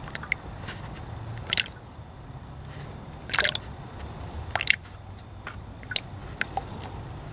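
Engine oil dripping from the drain hole into a drain pan: short wet ticks, roughly one every second and a half.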